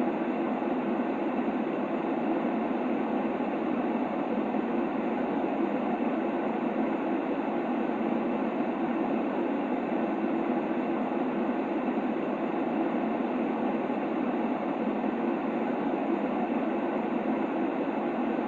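Steady baby-sleep white-noise track: an even, unbroken rushing hiss weighted toward the low-middle range, without rhythm or change.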